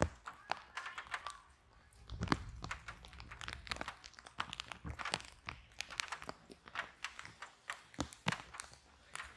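Wood fire burning in a fireplace: irregular crackles and pops from the logs over a soft low rumble of flame, with one louder pop a little over two seconds in.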